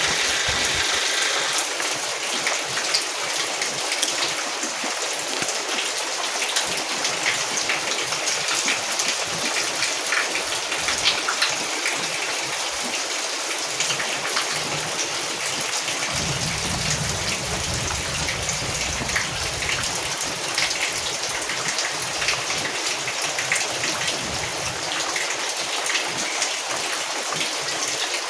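Steady rain falling, a dense even hiss with many small drop ticks scattered through it. A low rumble sits under the rain for a few seconds past the middle.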